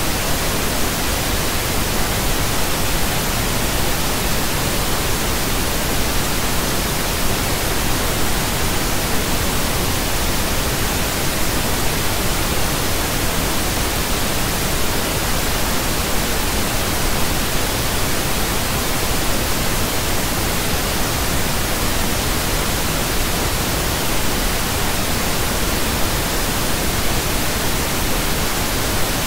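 Steady pink noise: an even, unchanging hiss spread across the whole range of pitches, with no tones or events in it.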